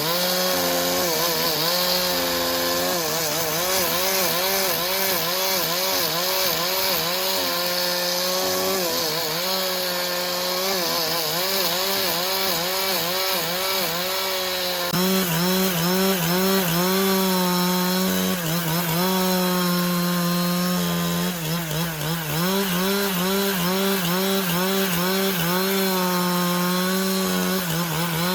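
Chainsaw cutting through timber. Its engine note wavers up and down continually as it works under load, and it runs a little higher and louder from about halfway.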